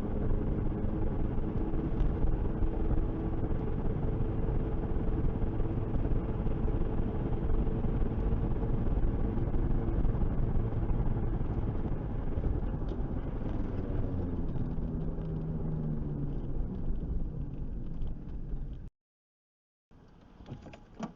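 A car driving, with steady engine and road noise; the engine's pitch shifts about two-thirds of the way through. The sound cuts off abruptly a couple of seconds before the end, followed by a brief silence and a much quieter stretch.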